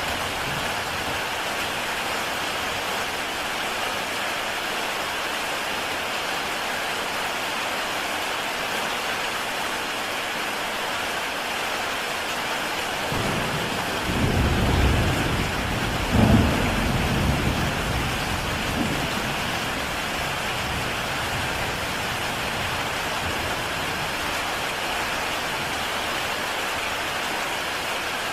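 Heavy rain falling steadily on a tile roof, a constant hiss. About halfway through, a roll of thunder swells up, peaks in a loud crack and rumbles away over a few seconds.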